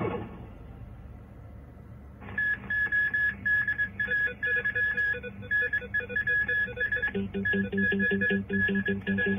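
Television news opening theme music. After a quiet couple of seconds, a fast run of high repeated beeps starts, and a pulsing low line joins it about seven seconds in.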